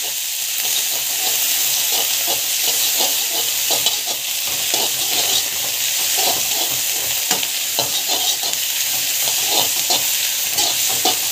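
Onions, chillies, garlic, curry leaves and coriander sizzling in hot oil in a kadai while a spatula stirs them round the pan. A steady sizzle runs underneath many irregular scraping strokes.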